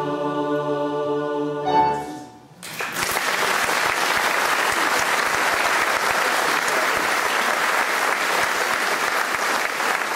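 A choir holds its final chord and cuts off about two seconds in. After a brief pause the audience breaks into steady applause.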